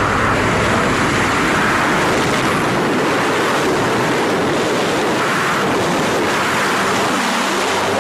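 Loud, steady rush of wind over the microphone of a wingsuit pilot in high-speed flight.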